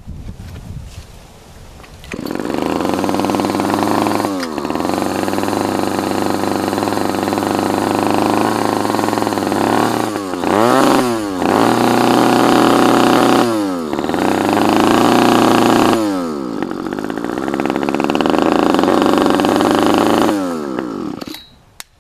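Small two-stroke engine running through a homemade multi-chamber exhaust with a very deep note. It catches about two seconds in, is revved down and up several times, and shuts off near the end.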